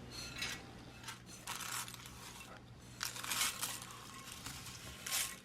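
Crispy dry chow mein noodles rustling and crunching as they are poured into the melted butterscotch and peanut butter, in four bursts of crackle.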